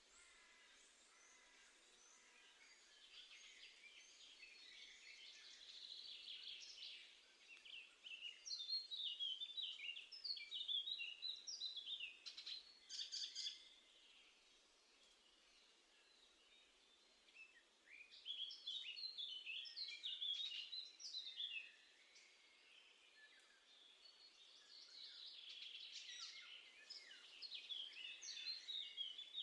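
Songbirds singing in repeated phrases of quick, high notes, each phrase a few seconds long, with short pauses between.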